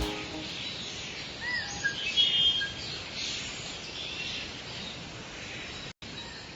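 Outdoor nature ambience: a steady background hiss with a few short bird chirps about one and a half to two and a half seconds in. The sound cuts out for an instant near the end.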